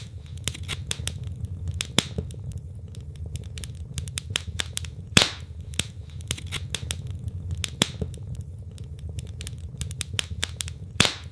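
Wood logs burning in a fireplace, crackling: a dense run of small snaps with three louder pops, over a steady low rumble.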